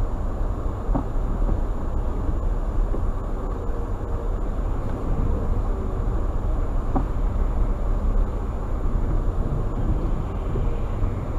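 Steady low rumble of road and engine noise from a moving car, with a few faint ticks.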